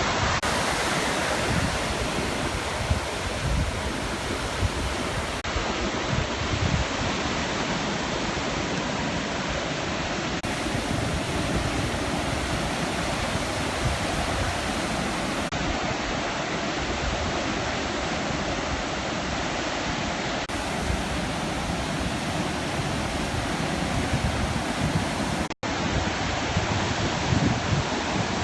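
Sea surf breaking along the shore: a continuous, steady rush of waves. The sound cuts out for an instant about three-quarters of the way through.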